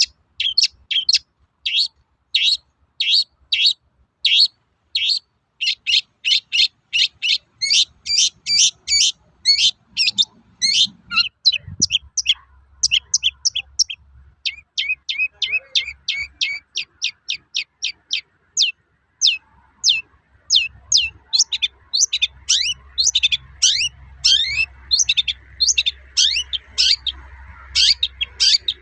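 Long-tailed shrike (cendet) singing its rapid 'toet-toet' song: an unbroken run of short, sharp high notes, about two to four a second, with some gliding notes mixed in near the end.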